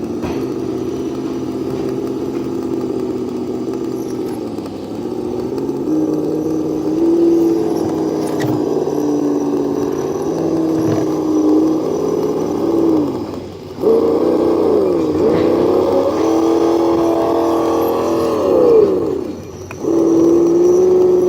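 Simulated V8 engine sound from an ESS Dual Plus sound module played through the small speaker of a 1/10-scale RC crawler, running at a lumpy idle and rising and falling in pitch as the throttle is worked. It drops out briefly twice.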